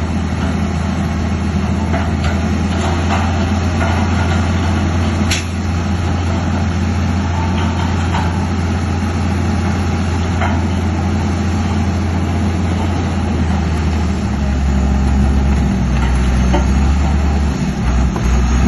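Heavy diesel engine of earthmoving machinery running steadily, with scattered knocks and clanks and one sharp knock about five seconds in. Its low note drops lower about fourteen seconds in.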